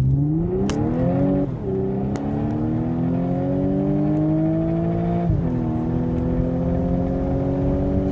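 Supercharged 3.0 V6 of a chipped Audi S4 Avant, with a changed supercharger pulley and intake, under full-throttle acceleration, heard from inside the cabin. The engine note climbs, drops sharply at an upshift about a second and a half in, and climbs for several seconds more. It drops at a second upshift past the five-second mark, then rises slowly again as the car pulls to about 140 km/h.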